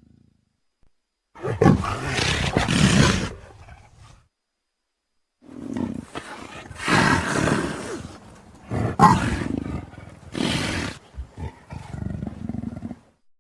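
Big cat roaring: one roar of about three seconds, a short silence, then a longer run of several roars one after another.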